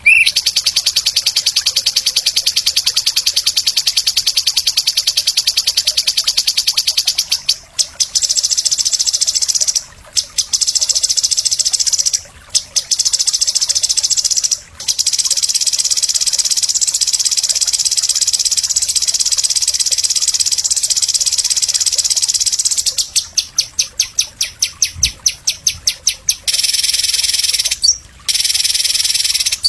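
A small songbird singing a loud, very high, rapid and almost unbroken chattering song: the kind of fighter-bird 'masteran' song used to teach caged songbirds. A few short pauses break the song, and partway through it turns into quick separate bursts.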